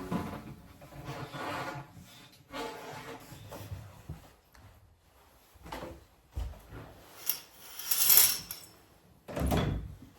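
Handling sounds: scattered knocks and two heavier thuds, like drawers or wooden things being moved, with a brief scraping rub shortly before the last thud.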